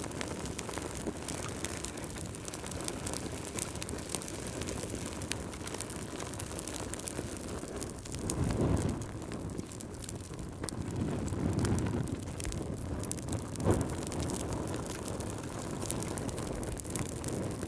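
Campfire burning and crackling, with frequent small pops and one sharper pop about fourteen seconds in. Low rushing swells come and go twice in the middle.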